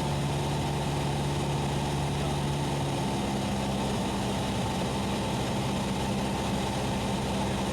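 Cessna 172SP's four-cylinder Lycoming engine and propeller droning steadily in the cockpit during a descent. The hum steps up to a higher pitch about three seconds in.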